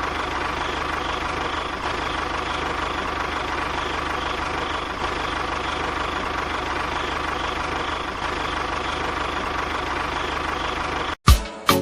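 A steady motor running at an even, unchanging pitch, like an idling engine. It cuts off abruptly near the end and loud music with sharp beats starts.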